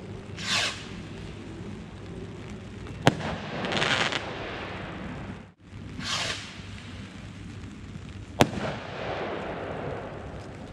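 Consumer fireworks going off: several whooshing shots and two sharp bangs about five seconds apart. The sound drops out for a moment near the middle.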